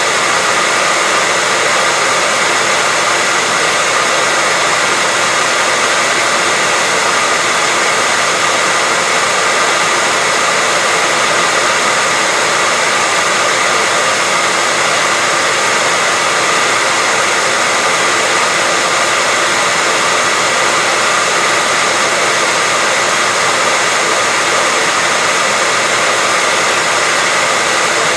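Hair dryer blowing steadily, a constant airy rush with a faint high motor whine.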